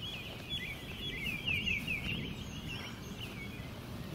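A songbird singing a long run of quick, varied chirps that stops about three and a half seconds in, over a steady low outdoor rumble.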